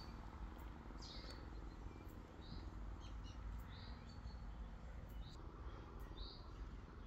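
Faint, short, high bird calls, about half a dozen of them roughly a second apart, over a steady low background noise.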